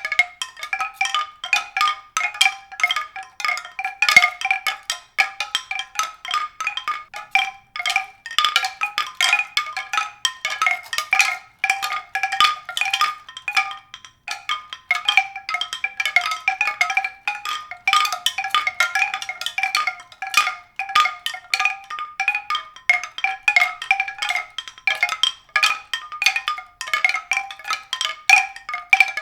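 Rapid, continuous run of struck, ringing mallet-percussion notes, several a second, in a high register on a handful of recurring pitches.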